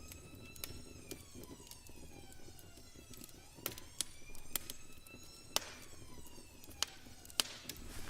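Siren-like wailing tones, several sliding slowly down and back up at once, with sharp clicks between them.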